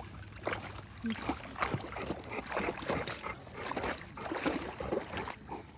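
Water sloshing and splashing in many small, irregular splashes.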